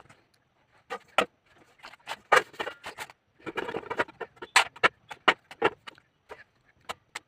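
Irregular sharp clicks and knocks of kitchen utensils at work, with the loudest knocks about a second in and in clusters around two and five seconds.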